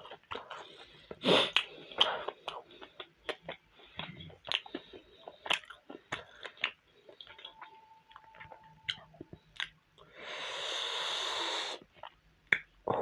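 Close-up chewing and wet mouth clicks of someone eating steamed momos, with a long, noisy breath out lasting about two seconds near the end.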